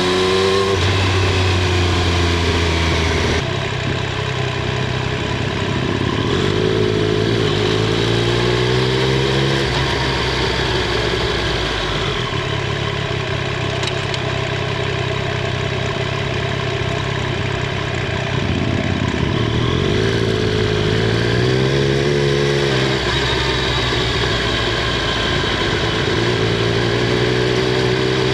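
Triumph Street Triple 765 R's inline three-cylinder engine and exhaust under way. The engine note rises and falls a few times with throttle and gear changes, and there is a rougher, less tonal stretch in the middle.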